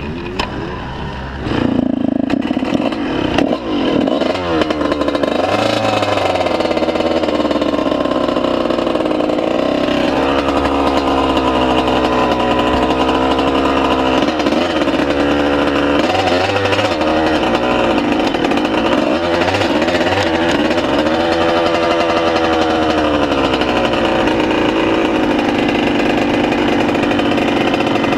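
Honda CR125 two-stroke single-cylinder motocross engine running, getting much louder about a second and a half in, then revving up and down over and over.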